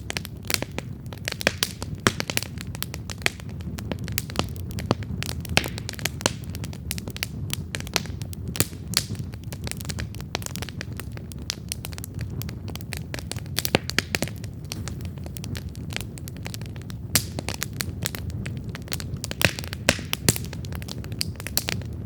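Wood campfire crackling: irregular sharp pops and snaps of burning logs over a steady low rumble of the flames.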